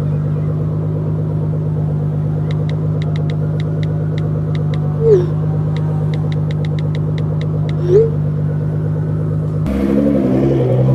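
Nissan GT-R R35's twin-turbo V6 idling steadily through a straight-piped Armytrix turbo-back exhaust, a low, even rumble. A run of faint ticks sounds over it in the middle, and the sound changes abruptly near the end.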